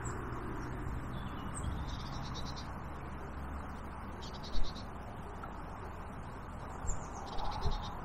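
Small birds calling in short, high bursts several times over a steady rushing background, with a single knock about halfway through.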